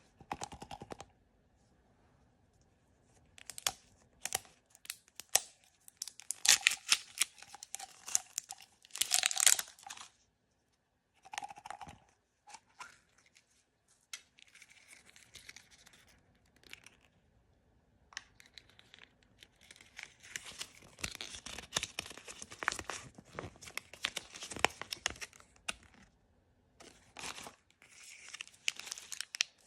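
Blind-bag packaging being torn open and crinkled by hand: irregular bursts of tearing and crackling with short pauses between, the loudest in the middle and in the second half.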